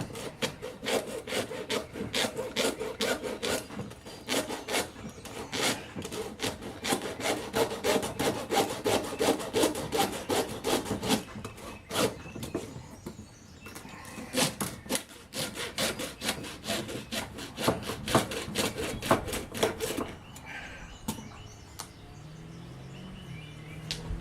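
A small hacksaw cutting through a wild turkey's leg to free the spur, in quick, steady back-and-forth strokes that stop about twenty seconds in.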